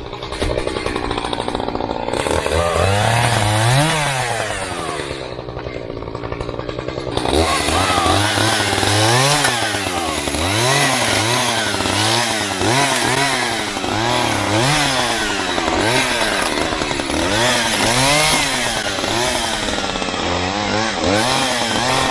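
Echo CS-590 Timberwolf two-stroke chainsaw idling briefly, then revved up. From about seven seconds in, it is throttled up and down over and over, about once a second, as it cuts into the trunk of a leaning tree.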